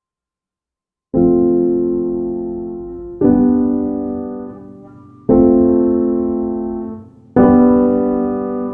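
Background piano music: slow chords struck about every two seconds, each left to fade away, after a second of silence.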